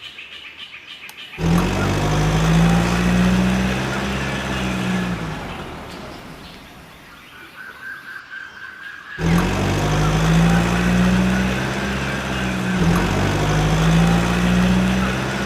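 A mini tractor's small motor running in three spells: the first starts suddenly, rises a little in pitch and fades away, and two more follow in the second half, each rising and then easing off.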